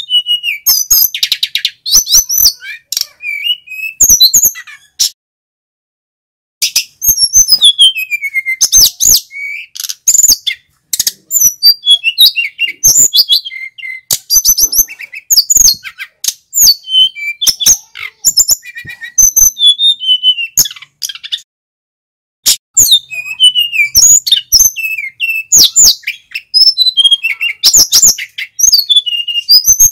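Male sikatan gunung (mountain flycatcher) in full song: rapid runs of high chirps, trills and whistled glides, with two short pauses about five and twenty-one seconds in.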